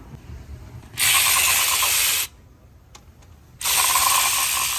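A pneumatic wrench (air ratchet or impact gun) running in two bursts of about a second each, a hissing rattle with a steady whine, loosening bolts while the engine is stripped down.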